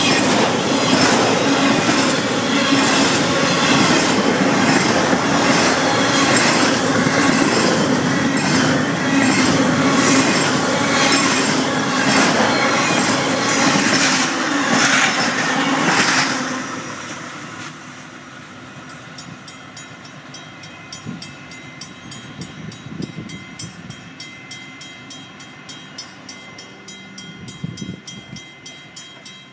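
Florida East Coast freight train's cars rolling past at close range: a loud, steady rattle with regular clacks of wheels over rail joints. It ends abruptly about 16 s in, giving way to a much quieter background with faint steady tones.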